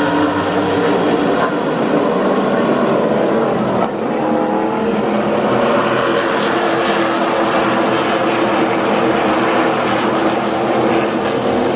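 A pack of NASCAR pickup-truck race V8 engines at full throttle on a restart. Several engine notes overlap and rise and fall as the trucks accelerate and pass.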